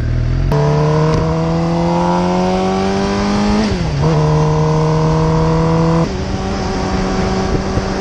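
Suzuki GSX-R750 inline-four engine pulling away from a stop under acceleration, its pitch rising through the gear. There is a quick dip for a gear change a little past halfway and a drop in revs about six seconds in, with wind noise over the microphone.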